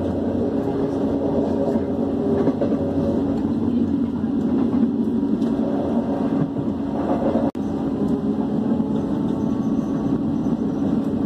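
Passenger train running, heard from inside the carriage: a steady rumble and rolling noise. The sound drops out for an instant about seven and a half seconds in.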